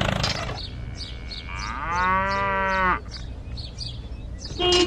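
A cow mooing once, a single drawn-out call about a second and a half in, after the engine sound cuts out. A short steady tone sounds near the end.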